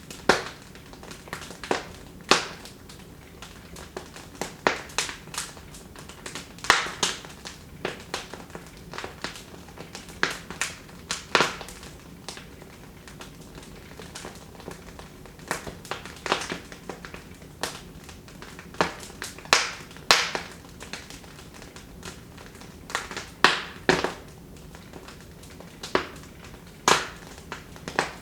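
Wood fire crackling and popping in a fireplace: irregular sharp snaps of varied loudness, several every few seconds, over a faint steady hiss.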